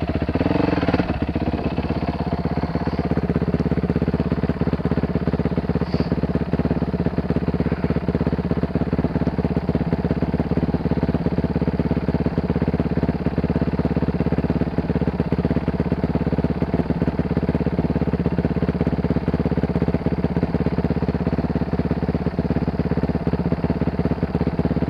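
Dirt bike engine running at a steady, unchanging pitch.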